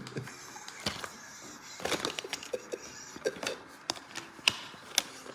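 Irregular sharp clicks and knocks, about seven of them, from objects being handled, as when a boxed toy and its packaging are picked at by hand.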